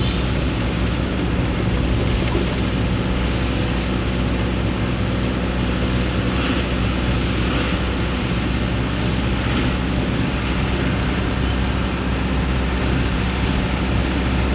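Dump truck engine running steadily: a constant low drone with an even rushing noise over it.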